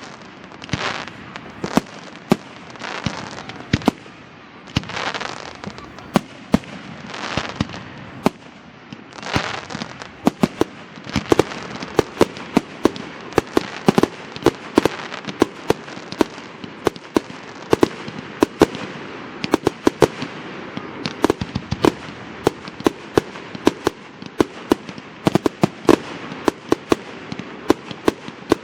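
Fireworks display. In the first ten seconds, hissing whooshes come about every two seconds among sharp bangs; from about ten seconds in, a dense, rapid volley of bangs and cracks follows, several a second.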